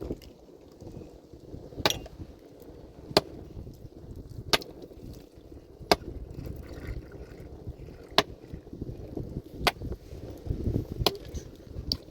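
A heavy hand tool striking rock again and again in stone-breaking work: sharp blows at a steady pace, about one every second and a half.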